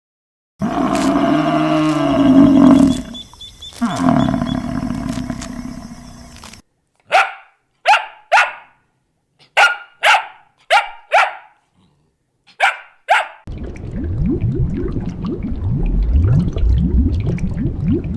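A dog barking about nine times in short sharp barks, in small groups. Before the barks comes a long, loud animal call, and after them a low rough rumbling.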